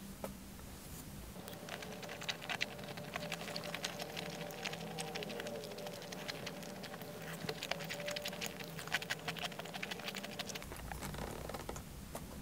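Close-up chewing of a bacon-wrapped enoki mushroom roll with rice: a dense run of small moist crackles and clicks starting about two seconds in and easing off shortly before the end.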